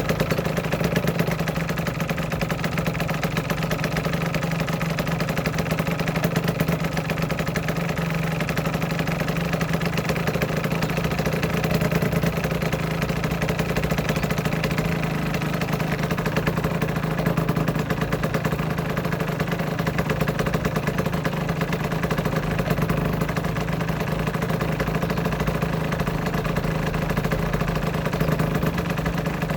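Aprilia RS125's single-cylinder two-stroke engine idling steadily, with no change in speed.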